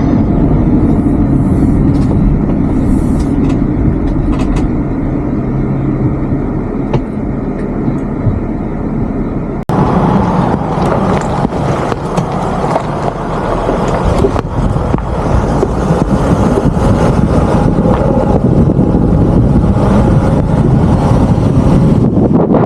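Steady road and engine rumble from a camper van driving along. About ten seconds in, the sound breaks off abruptly and goes on as a brighter, hissier rushing noise.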